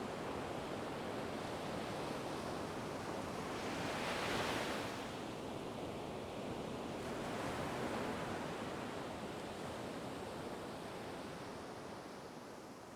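Ocean surf: a continuous wash of waves, with a wave breaking about four seconds in and another at about eight seconds, the sound gradually fading out near the end.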